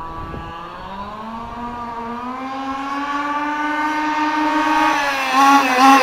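Losi 5ive-T 1/5-scale RC truck's two-stroke gas engine running flat out on a speed run, growing steadily louder as the truck comes closer. Its pitch wavers near the end.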